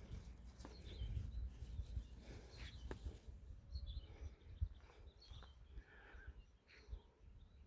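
Faint, scattered bird chirps over a constant low rumble, with a few sharp clicks.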